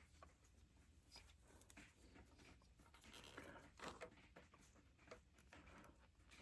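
Near silence with faint, scattered small clicks and rubs of hand work on metal parts, a little louder about four seconds in.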